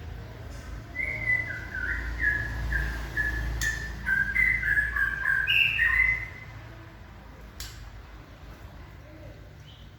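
White-rumped shama giving a run of short whistled notes for about five seconds, stepping up and down in pitch, then falling silent. A low rumble runs under the song.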